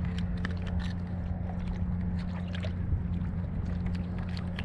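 Steady low hum with scattered small clicks and knocks as a deep-swallowed hook is worked out of a trout's mouth in the kayak.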